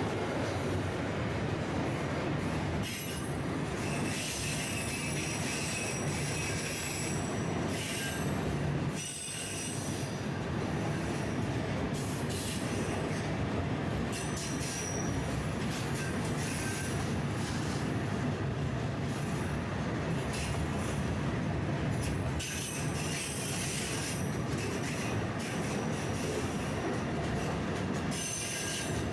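Freight train rolling by, wheels squealing against the rails: high squeal tones come and go over a steady rumble, with a brief dip about nine seconds in.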